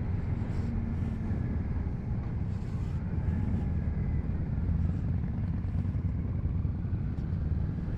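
Motorcycle engine running steadily while under way, with road and wind noise.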